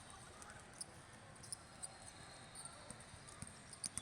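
Faint basketball game sounds in a gym: short, high sneaker squeaks on the court scattered throughout, with a few thuds from the ball bouncing.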